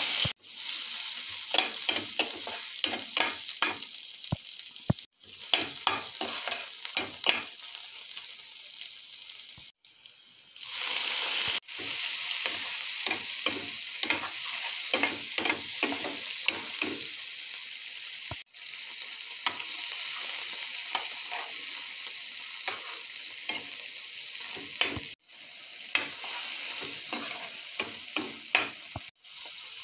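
Sliced onions and then shrimp sizzling in hot oil in a pan, with a metal spatula stirring and scraping against the pan in frequent short strokes. The sizzle breaks off briefly several times, and there is a louder surge of sizzling about eleven seconds in.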